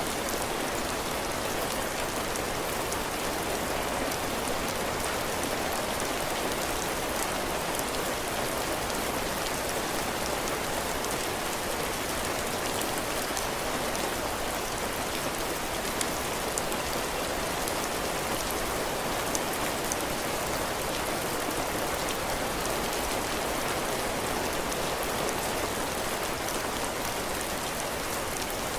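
Heavy rain falling steadily on a cabin porch roof and floor, a dense even hiss with many fine drop ticks.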